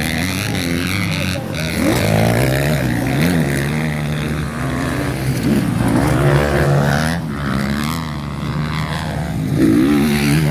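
Several motocross motorcycle engines revving up and down over and over as the bikes race around a dirt track.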